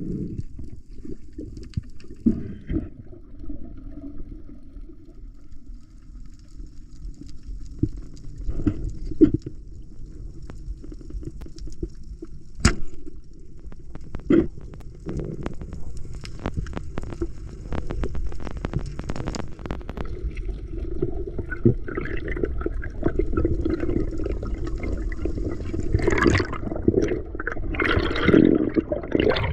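Water sloshing and gurgling over a constant low rumble, with scattered knocks and clicks; it grows louder and busier near the end.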